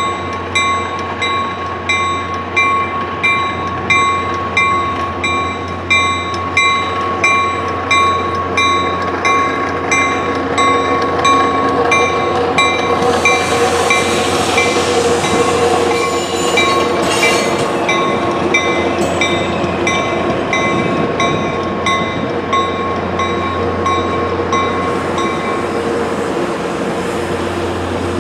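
A warning bell rings steadily, about three strikes every two seconds, as a Caltrain bilevel passenger train arrives. From about halfway through the cars roll past close by, their wheel rumble and clatter on the rails growing louder and covering the bell.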